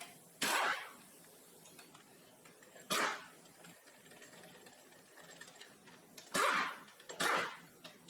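A wrench working the cylinder head bolts of a Model T Ford engine: four short strokes, the first two a few seconds apart and the last two close together near the end.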